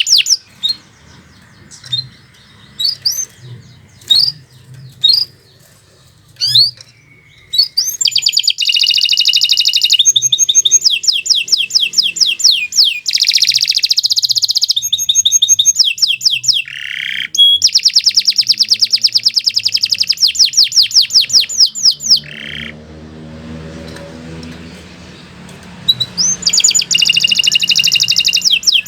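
Domestic canary singing: scattered short chirps at first, then long, fast trills of rapidly repeated notes from about eight seconds in. The song breaks off for a few seconds and starts again with another trill near the end.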